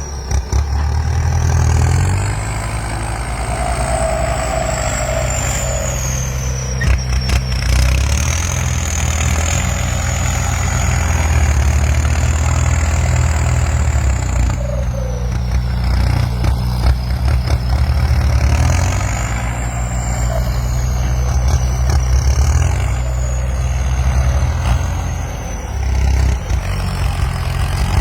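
Diesel farm tractor engine running steadily at working speed, with a thin high whine rising and falling in pitch above the engine note.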